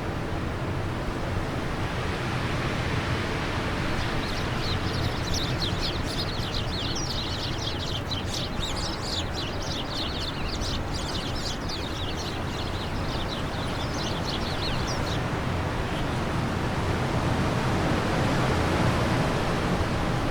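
Wind blowing steadily, swelling a little near the end. A small bird sings a fast run of quick high twittering notes over it, stopping about three-quarters of the way through.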